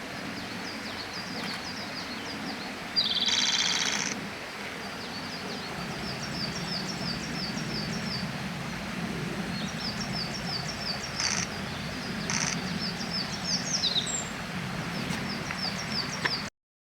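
Japanese robin singing: one loud, rapid trilled phrase about three seconds in, with rows of short high chirps repeating through the rest, over a steady low background hum. The sound cuts off suddenly near the end.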